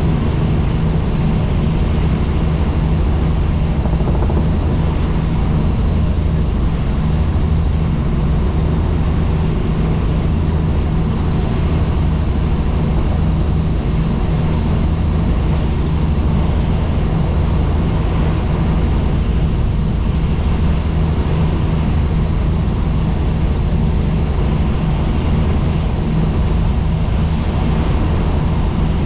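Helicopter in steady flight: loud, unchanging rotor and engine noise with a low hum and a fast rotor beat.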